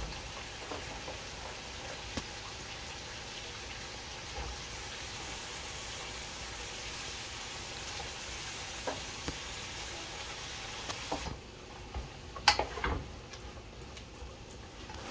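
Curry masala frying in a pot: a steady sizzle with a few light clicks. About eleven seconds in, the sizzle falls away and a few sharp knocks follow, the loudest sounds here.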